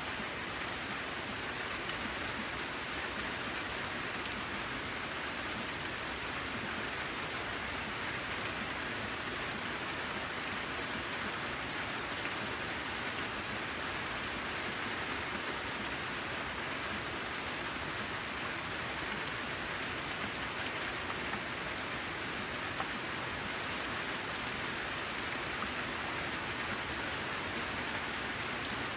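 Steady rain pattering on corrugated metal roof sheeting, an even hiss with individual drops ticking through it.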